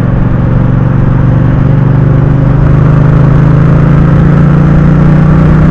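Motorcycle engine running steadily while riding, with a constant engine tone over road and wind noise.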